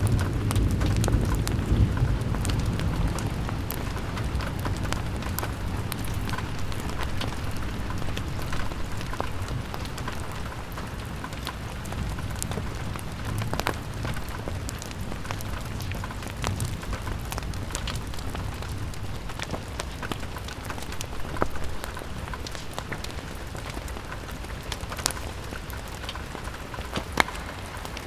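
Steady rain on a window: an even hiss with many small drop clicks. A low rumble dies away over the first few seconds.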